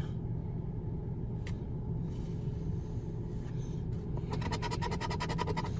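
Scratch-off lottery ticket being scratched in a fast run of short strokes near the end, over a steady low rumble.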